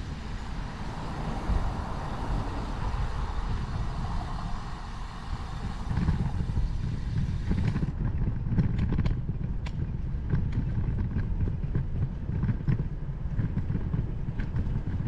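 Wind rumble on a bike-mounted camera's microphone while cycling, with the hiss of passing road traffic swelling and fading in the first half. Light ticks and rattles come through in the second half.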